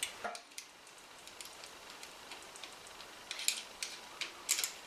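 Small, light metal clicks and ticks as the drilled-off rivets give and the metal baseplate is prised up off the diecast toy car body. The clicks are sparse at first, with a cluster of sharper clicks about three and a half seconds in and another near the end.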